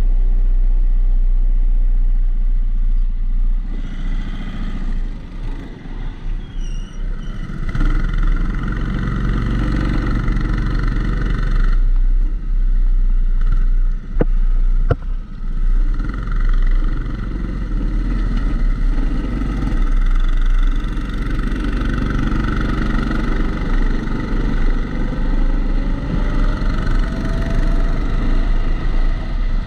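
Kombikart Eco rental kart engine heard onboard through a GoPro's waterproof housing, running under load as the kart laps, with a dull rumble from the housing. It eases off briefly a few seconds in, there are two sharp clicks in the middle, and the engine note rises near the end.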